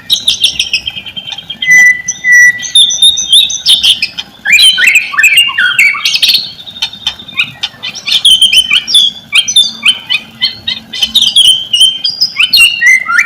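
White-rumped shama (murai batu) singing without a break: a fast, varied run of whistled notes, rising and falling sweeps and short clicking notes. It is a stimulus song meant to set a silent caged shama singing.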